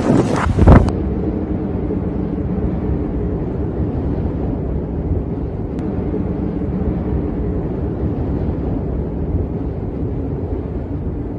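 Wind buffeting the microphone for under a second, then a steady low engine drone, as of a running vehicle, that cuts off near the end.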